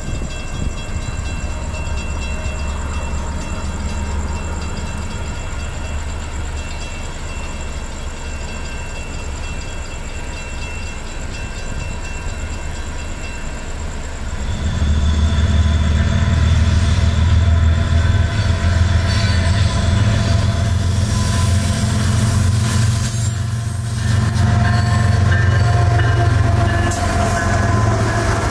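A CSX train running past on the tracks, its low diesel rumble growing clearly louder about halfway through. High-pitched tones join in over the last several seconds.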